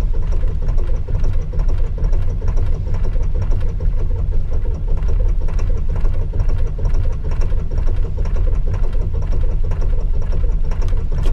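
Ford 7.3 V8 diesel cranking on its starter in the cold, firing unevenly on some cylinders with a fast, knocking rhythm but not catching and running on its own; the cranking stops abruptly at the end. This is a hard cold start in freezing weather with tired batteries.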